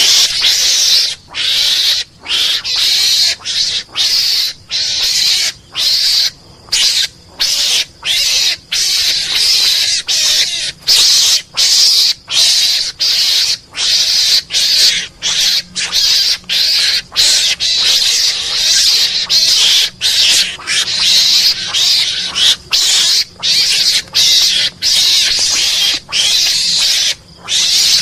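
Mongoose lure call: harsh, hissing mongoose calls repeated in quick succession, each under a second long, with short breaks between them.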